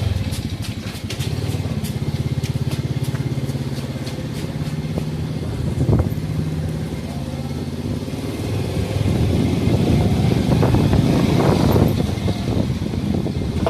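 Motorcycle engine running at idle after being started, with a steady rapid firing pulse. It picks up somewhat for a few seconds around ten seconds in.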